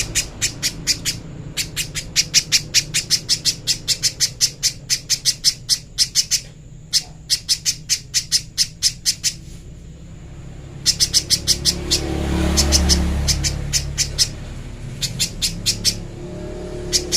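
Spiderhunter (pijantung pisang) calling a rapid string of sharp, high chips, about five or six a second, in bursts broken by short pauses, with a low steady hum beneath.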